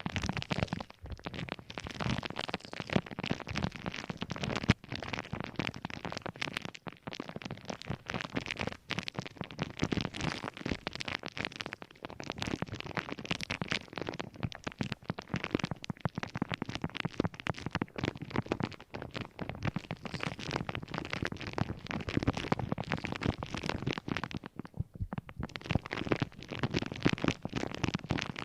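Dense, continuous crackling and scratching of objects being handled, made up of many small clicks, with a brief lull near the end.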